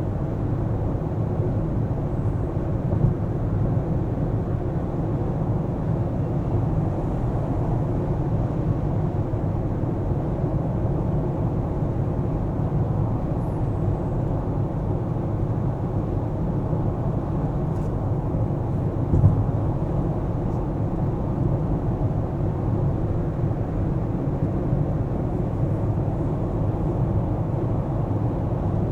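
A car driving through city streets: steady low road and engine rumble, with two brief bumps, about three seconds in and near the middle.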